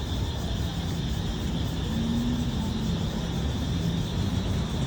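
Cicadas buzzing in a steady high chorus, over a continuous low rumble.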